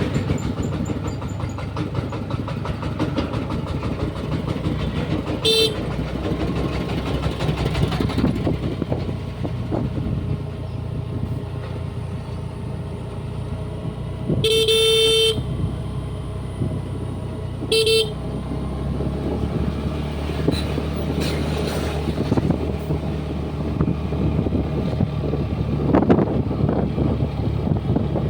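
Honda Dio 125 scooter's single-cylinder engine running steadily under way, with road and wind noise. A horn beeps three times: short, then a longer toot about nine seconds later, then another short beep.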